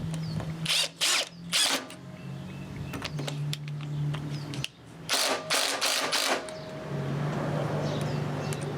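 A drill motor running in stretches of a few seconds, driving screws into hard purpleheart wood, with short loud noisy bursts twice, once near the start and once in the middle. The screws are going into wood hard enough to snap them.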